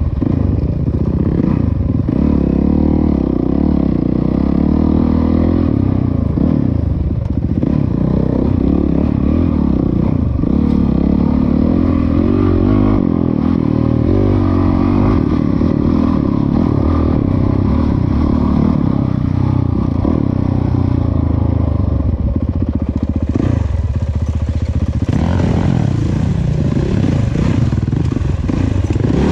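Dirt bike engine running and revving, its pitch rising and falling as the throttle is worked.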